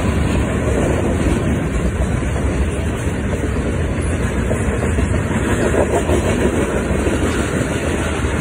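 Intermodal freight train's well cars, loaded with double-stacked containers, rolling past at a grade crossing: a loud, steady noise of steel wheels running on the rails.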